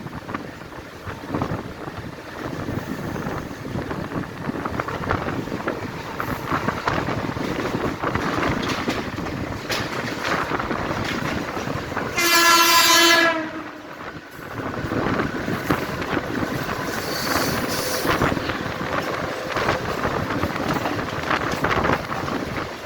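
Mumbai suburban local train running with a steady rattling noise, and one blast of the train's horn about halfway through, lasting about a second and louder than everything else.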